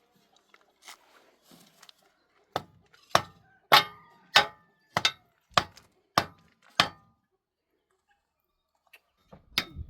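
A tool striking wood: about eight sharp blows, a little under two a second, some with a brief metallic ring. After a short pause, quicker blows start near the end.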